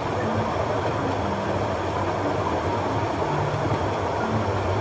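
Full mountain stream rushing over rocks, a steady unbroken rush of water.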